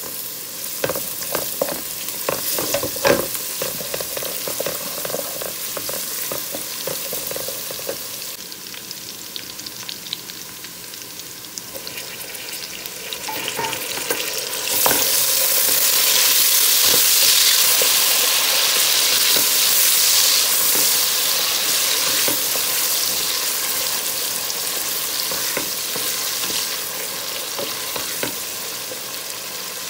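Sliced onions frying in hot oil in a metal pot, sizzling steadily, with the clicks and scrapes of a wooden spoon stirring them early on. About halfway through, chopped tomatoes go into the oil and the sizzling suddenly gets louder, then slowly eases off.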